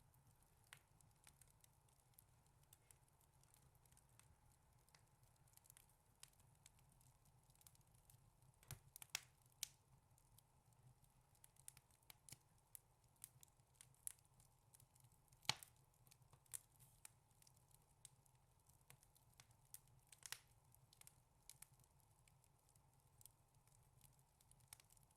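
Wood fire crackling in a fireplace: a steady scatter of faint snaps and clicks, with a few louder pops about nine, fifteen and twenty seconds in.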